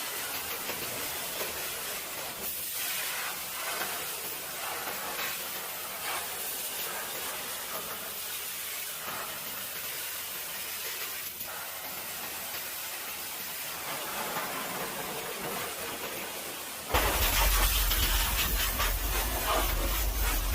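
Steady hiss of water spray, as from a car wash pressure washer. About three-quarters of the way through it suddenly gets louder, with a low rumble added.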